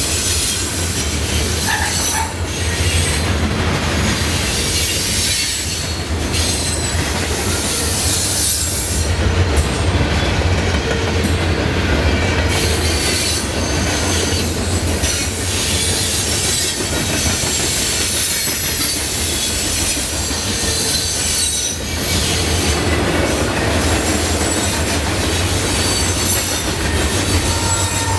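Freight train cars rolling past, steel wheels squealing in thin high tones over a steady, loud rumble.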